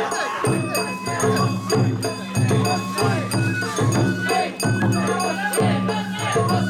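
Traditional Japanese festival music played live, with a wavering melody over a repeating rhythmic accompaniment and steady high ringing tones.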